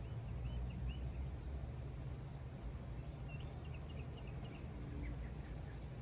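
Faint bird chirps in a few short runs over a steady low rumble.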